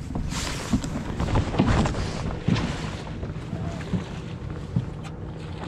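Small fishing boat's motor humming steadily, with wind on the microphone. A few sharp knocks and rushes of noise come in the first three seconds.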